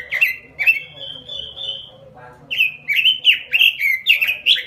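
Pekin robin (red-billed leiothrix) singing vigorously: a quick run of loud chirping notes, a short pause about two seconds in, then the song picks up again just as fast.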